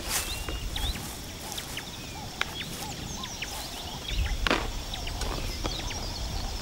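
Many birds chirping, dense short rising chirps overlapping one another, over a low rumble, with a single sharp knock about four and a half seconds in.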